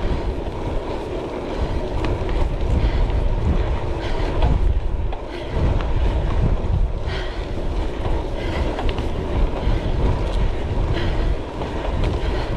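Wind buffeting an action camera's microphone through a worn foam windshield, over the rumble of a gravel bike's tyres rolling on the road, with small clicks and rattles from the bike.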